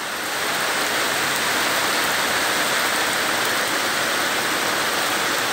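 Steady rain falling, a dense even hiss that swells slightly in the first half-second and then holds.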